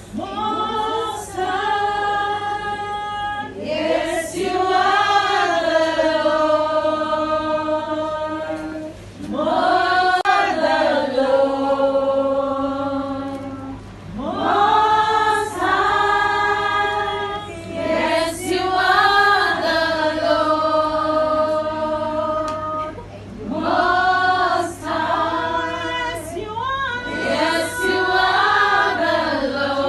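A choir of voices singing a song in long phrases with held notes, pausing briefly between phrases.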